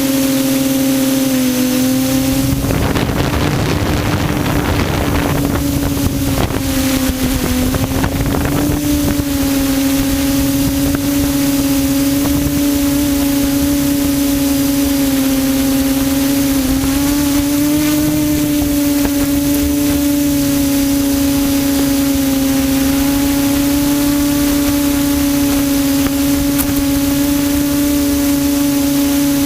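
QAV400 quadcopter's electric motors and propellers buzzing at a steady pitch, heard from the camera on board, with a small dip and rise in pitch around two-thirds of the way through. Wind noise on the microphone rushes in between about two and nine seconds in.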